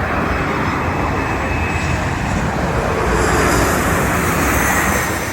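Jet airliner on final approach passing close, a steady engine rush that swells to its loudest about three and a half seconds in, then eases off near the end.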